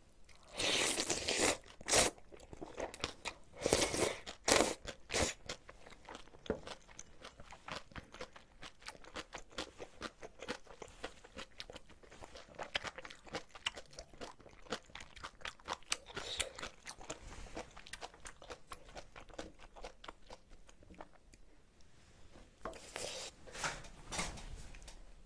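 Close-miked chewing of crunchy napa cabbage kimchi and ramen noodles: steady crunching and small wet mouth clicks, with louder bursts of eating noise in the first five seconds and again near the end.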